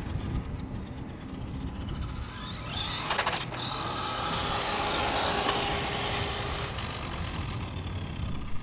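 FMS 1/10-scale Ford F-100 2WD RC monster truck running flat out on a 3S battery: its electric motor and drivetrain whine rises in pitch about three seconds in, holds high, then eases off near the end.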